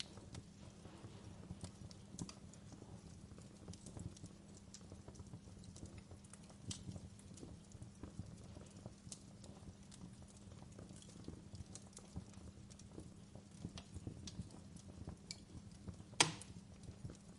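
Wood fire burning in a fireplace, crackling with irregular small pops and snaps over a low steady rumble, with one louder pop near the end.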